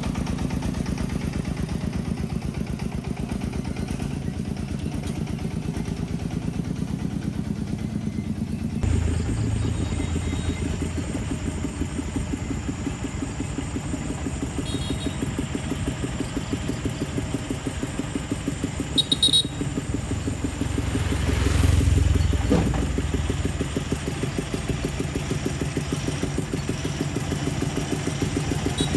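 Agricultural vehicle's engine running steadily. Its sound changes abruptly about nine seconds in, a short clatter comes near the middle, and the engine briefly grows louder around three-quarters of the way through.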